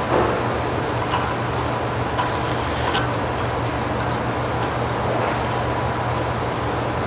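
Light scratching and clicking of a hand pick scraping caked dirt and oil off a diesel engine, over a steady low hum of background shop noise.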